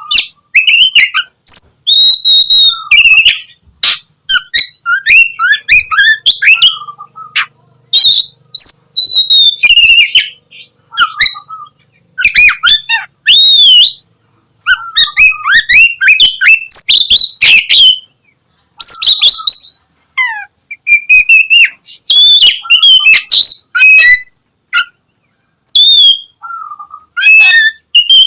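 Oriental magpie-robin (kacer) singing loudly and energetically. Its song is a varied run of clear whistles, rapid chirps and up-and-down pitch glides, delivered in phrases of a second or two with short breaks between them.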